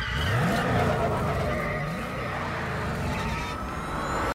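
Classic Fiat 500's small engine revving hard, rising in pitch twice as it accelerates, over steady road and tyre noise in a road tunnel.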